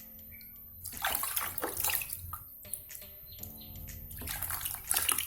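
Water splashing and trickling in irregular bursts as a hand scoops water from a bucket over a zebra dove being bathed.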